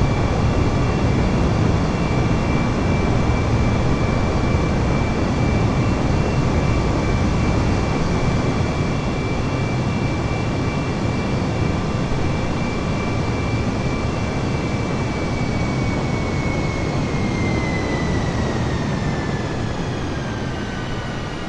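Jet airliner engines at high power: a heavy rumble under a steady high whine. Over the last few seconds the whine falls in pitch and the noise eases a little as the engines spool down.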